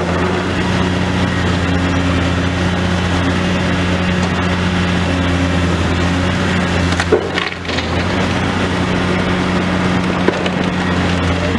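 Demolition excavator's diesel engine running steadily, with continuous crunching and cracking of building debris as the machine breaks it up; the crackling briefly dips about seven and a half seconds in.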